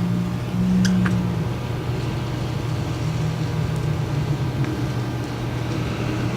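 A motor running steadily with a low hum, with a couple of light clicks about a second in.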